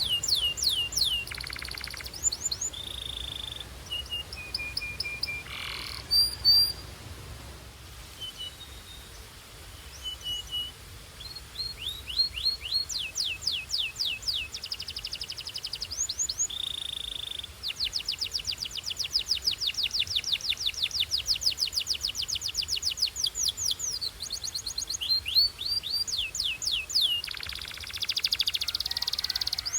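Belgian canary singing: a run of rapid, high-pitched trills made of quick falling notes, broken by short held whistled notes. About two-thirds of the way through comes a long, very fast trill.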